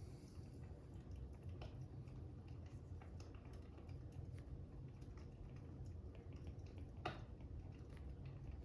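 Fire crackling softly: a steady low rumble with scattered small pops and snaps, one sharper pop about seven seconds in.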